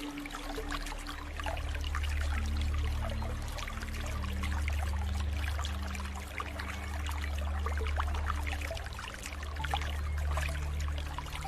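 Floodwater flowing: a steady low rumble under many small splashing crackles.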